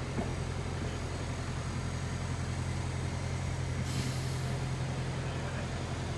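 A large diesel vehicle engine, such as a bus's, running with a steady low drone, and a short hiss of air about four seconds in.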